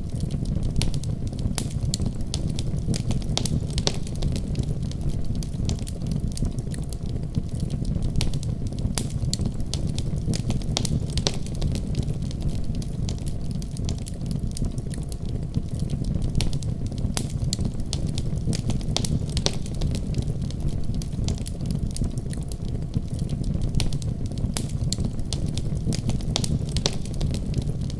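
Wood fire crackling and popping, with a steady low rumble of flames under frequent sharp pops at irregular intervals.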